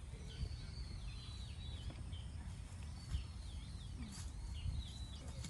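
Small birds chirping and twittering in short, high, wavering calls, over a low steady rumble.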